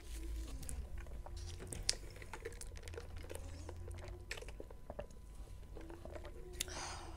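Close-miked eating sounds: chewing with many small wet mouth clicks, and sipping cola through a straw, with a short louder slurp near the end.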